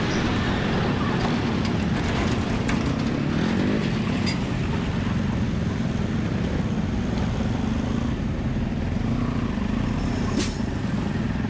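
Road traffic and a steady low wind rumble heard from a moving motorbike. Another vehicle's tone slides past about three seconds in, and there is a sharp click near the end.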